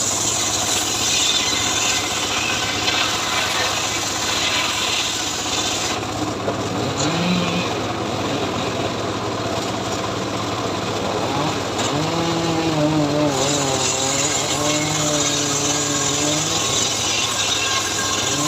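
Homemade powered saw cutting through teak wood: a steady, loud hissing rasp of the blade in the timber, easing off briefly about six seconds in and again around twelve seconds, over the machine's running motor.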